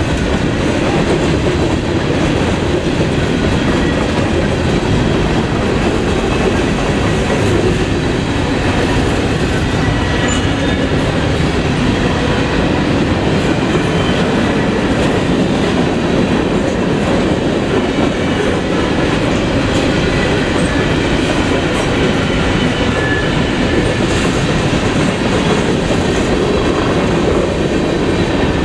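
Freight train's cars rolling steadily past, wheels clacking over the rail joints with a continuous rumble.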